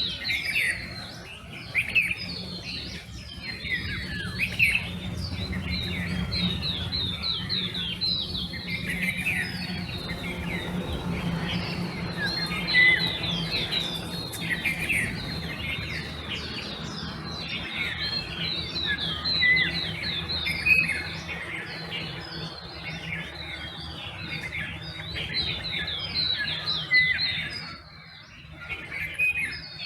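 Dawn chorus of many songbirds chirping densely and continuously, with overlapping quick high chirps and a few short clear whistled notes, over a faint low steady hum.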